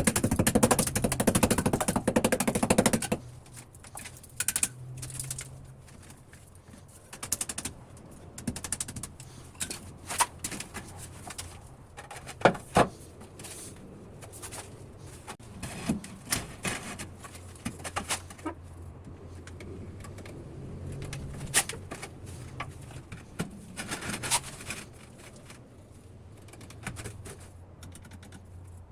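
A loud rapid clattering rattle for about the first three seconds, then scattered sharp clicks and knocks, the loudest a single knock near the middle, over a steady low hum.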